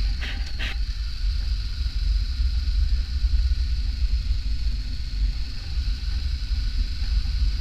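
Onboard sound of a motorcycle being ridden: a steady rumble of wind on the microphone over the running engine, with two short clicks just after the start.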